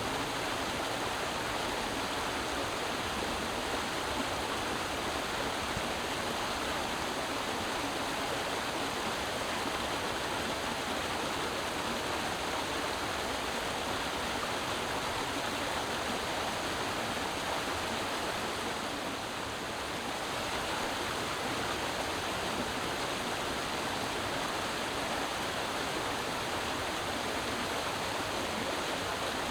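Creek water flowing over rocks: a steady rushing and babbling.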